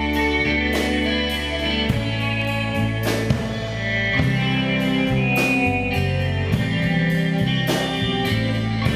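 Rock band playing live without vocals: guitars over held bass notes and a steady drum beat.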